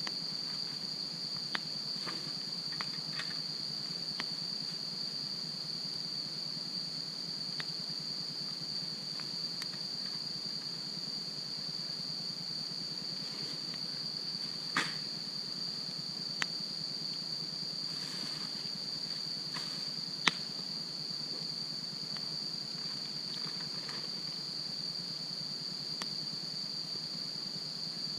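Wood fire crackling with scattered sharp pops and snaps, the loudest about twenty seconds in, over a steady high-pitched insect trill from crickets.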